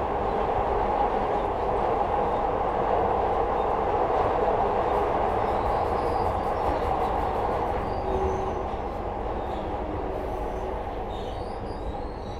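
Second-generation Glasgow Subway train heard from inside the car: a steady roar of wheels and running gear on the track. Faint high wheel squeals and light ticks come in about halfway through, and the roar eases off over the last few seconds.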